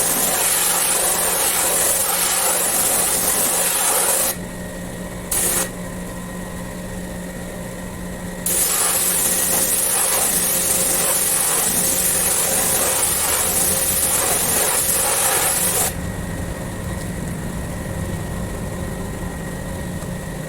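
Pressure washer spraying water on an air-conditioner unit, in long bursts as the trigger is held and released, over the steady hum of its motor, which carries on in the pauses.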